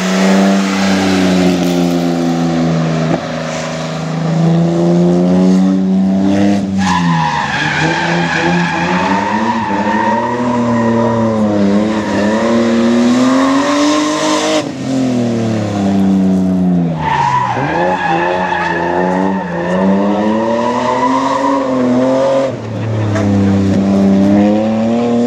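BMW E30 drifting: the engine runs high in the revs, its pitch rising and falling, with the tyres squealing in two long stretches, from about seven seconds in and again from about seventeen seconds in.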